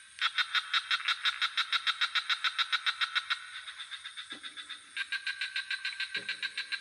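Swamp night chorus of frogs and insects: a fast high pulsing call, about eight pulses a second, that eases into a softer steady trill for a moment before picking up again. Two low frog croaks sound in the second half.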